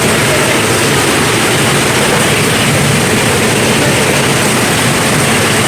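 Heavy tropical rain falling hard, a loud steady hiss with no breaks.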